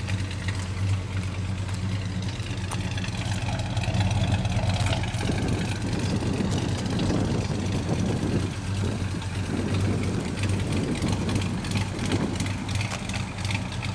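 Chevrolet 350 small-block V8 in a 1947 Chevrolet panel truck idling steadily, its low running note unbroken, turning slightly rougher about five seconds in.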